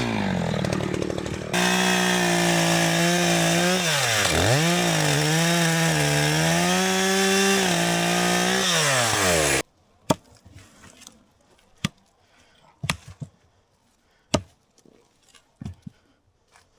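ECHO CS-590 two-stroke chainsaw running at high revs while cutting wood, its pitch sagging under load and recovering several times. It cuts off abruptly almost ten seconds in, leaving only scattered knocks and clicks.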